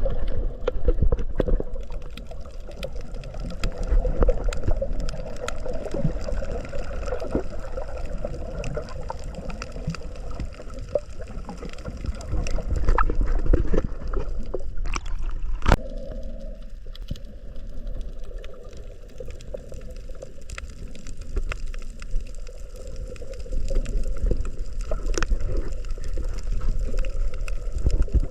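Water gurgling and sloshing close to the microphone, with many small splashes and a low rumble; the sound changes abruptly about halfway through.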